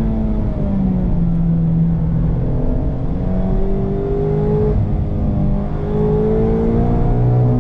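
Mazda MX-5's 2.0-litre four-cylinder engine through a Friedrich Motorsport Group A stainless-steel cat-back exhaust, pulling under acceleration. The engine note climbs in pitch and drops back abruptly about two-thirds of the way in, as at an upshift, then climbs again.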